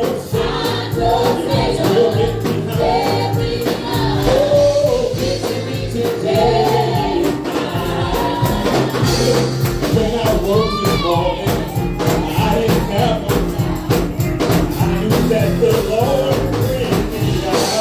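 Gospel song with voices singing together over a band with a steady beat.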